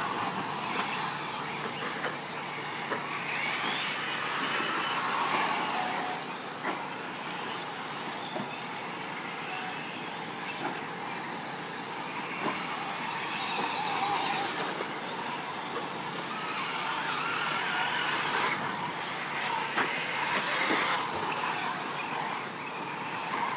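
Radio-controlled short course trucks racing on a dirt track, their motors whining up and down in pitch as they accelerate and brake, over a steady rush of tyre and dirt noise. A few short knocks are heard at intervals.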